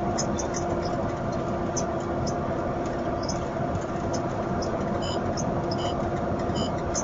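Steady vehicle engine and road noise with a constant hum and scattered faint ticks; no crash is heard.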